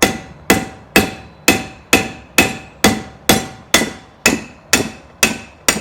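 Hammer blows on metal in a steady, even rhythm, thirteen strikes at about two a second, each with a short metallic ring.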